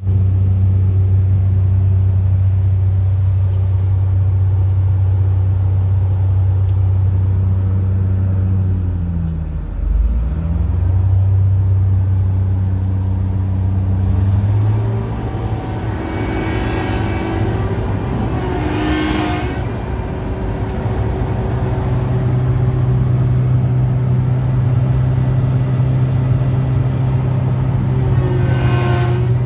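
Komatsu PC1250-8R excavator's diesel engine and hydraulic pumps running loud and steady. About ten seconds in the engine note dips, and about fifteen seconds in it steps up higher. A whine climbs and falls in pitch twice over, in the middle and near the end.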